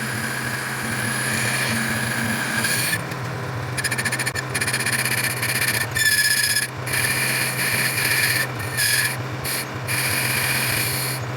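A motor-driven tool working metal: a steady motor hum under a high squeal of metal being cut or rubbed, which breaks off briefly and resumes several times.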